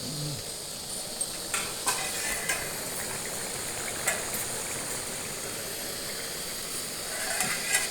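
Food sizzling in a pan, with a spatula scraping and knocking against the pan a few times: several knocks in the first few seconds, another around the middle, and a quick flurry near the end.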